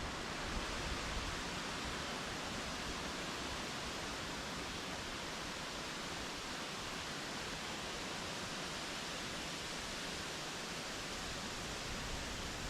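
Strong storm wind rushing steadily through trees, an even hiss with no distinct gusts.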